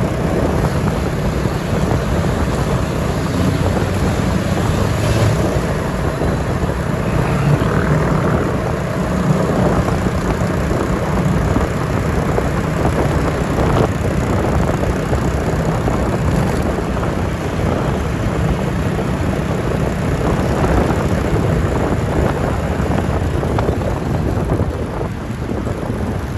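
Motorbike riding through city traffic at night: steady engine and road noise with wind buffeting the microphone.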